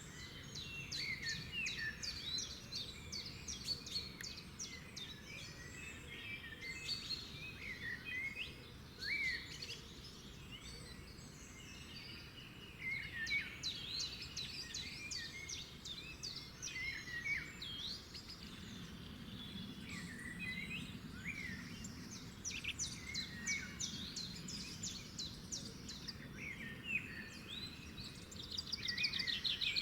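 Several songbirds singing at once: a mix of chirps, short whistled phrases and fast trills, over a low steady outdoor rumble.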